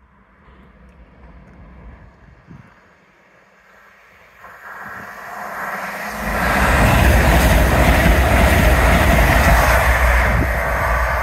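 Lumo Class 803 electric train running through the station at speed: a rushing rumble of wheels on rail and air that builds from about four seconds in and is loud and steady from about six seconds on.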